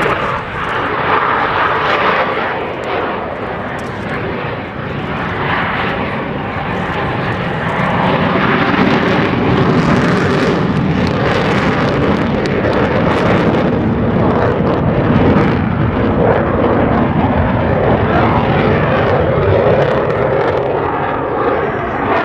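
Jet engine noise from two F/A-18 Hornets' General Electric F404 turbofans during a slow, nose-high pass. It is loud and continuous and grows louder about eight seconds in, as the pilots go to full afterburner.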